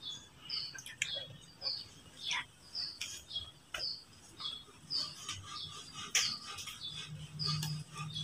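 A small bird chirping over and over, short high chirps about once a second, with scattered light clicks and taps.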